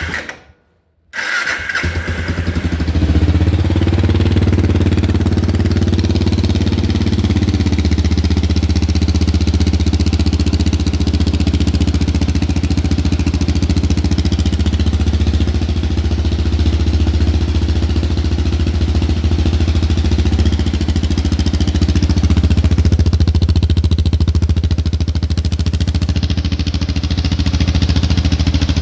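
Suzuki DR650 single-cylinder four-stroke engine being started: after a brief crank it catches about a second in and settles into a steady idle, exhaling through an aftermarket slip-on muffler with its baffle removed. Loud in the shop.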